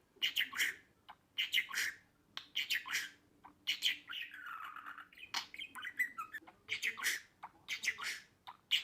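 Budgerigars chirping and squawking in quick clusters of short, sharp calls, with a longer rasping warble about halfway through.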